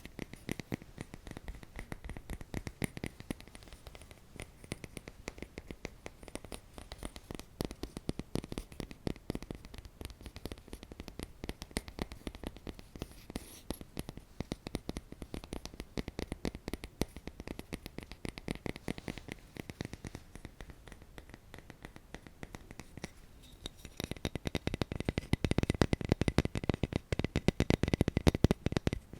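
Close-miked ASMR scratching and tapping: a dense, fast run of small clicks and scrapes, growing louder near the end.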